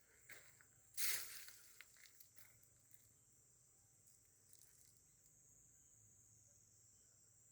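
Steady, faint high-pitched insect chirring, with a few short rustling or crunching sounds in the first two seconds, the loudest about a second in.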